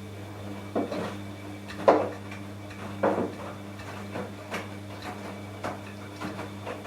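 Washing machine running: a steady motor hum with a knock or thump roughly once a second as the drum turns, the loudest about two seconds in.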